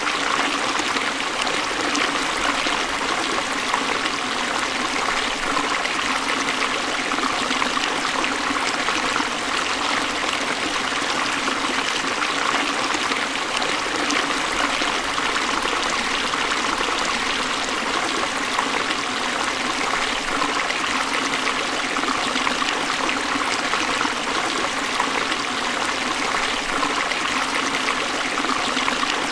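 Forest stream flowing steadily over rocks, a continuous even rush and trickle of water.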